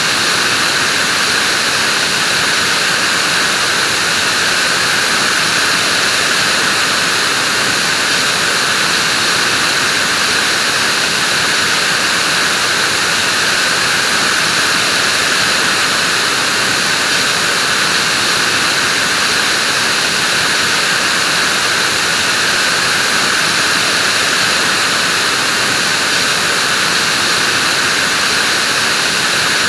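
Vacuum cleaner running steadily: an even, hissing whoosh of motor and airflow with no change in pitch or level.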